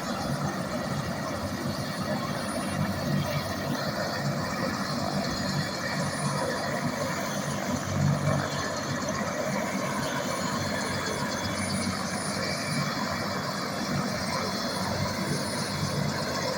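Life Flight medical helicopter running steadily on its landing pad, its turbine engine and rotor giving a constant mechanical noise with a faint high whine.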